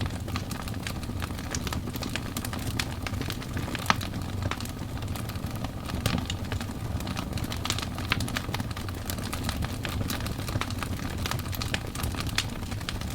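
Wood fire burning: logs crackling with frequent sharp pops over a steady low rumble of flames, one louder pop about four seconds in.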